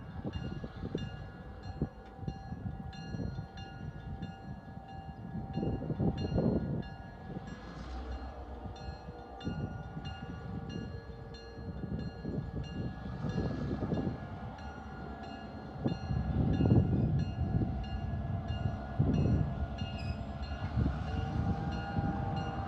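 Southern Pacific GP9R diesel locomotive running as it starts its train, with a low rumble that swells at times and a faint regular ticking about twice a second.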